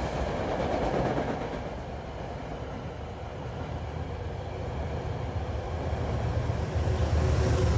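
Metro-North commuter train of Shoreliner coaches passing close by: a steady rumble of wheels on rails. A deeper rumble builds over the last couple of seconds as the locomotive pushing at the rear comes by.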